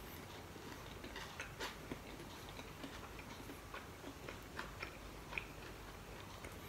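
Faint close-up chewing of fried dried seafood eaten with rice, with scattered soft mouth clicks and smacks a few times a second.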